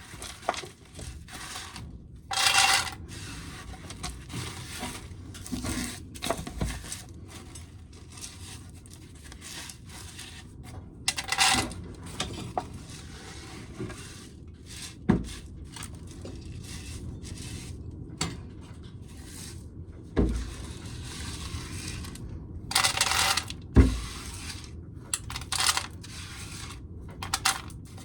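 Spilled shelled corn kernels and chaff being scraped together and gathered up, rattling and scraping. There are several short rattling pours and a few sharp knocks.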